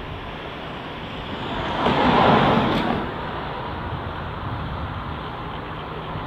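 Steady vehicle noise, swelling loudly for about a second, roughly two seconds in, as a vehicle passes close, then settling back to a steady rumble.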